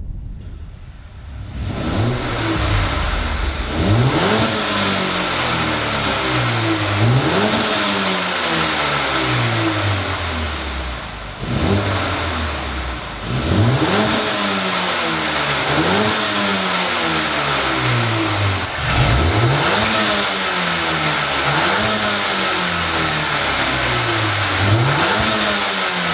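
Mercedes A35 AMG's turbocharged 2.0-litre four-cylinder, breathing through a Milltek race cat-back exhaust, revved again and again: each rev climbs fast and falls back more slowly, about a dozen times in a row.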